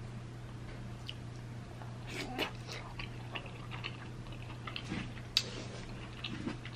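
Close-miked wet chewing and lip smacking as a person eats a saucy seafood-boil bite, with scattered small mouth clicks and one sharper click about five seconds in.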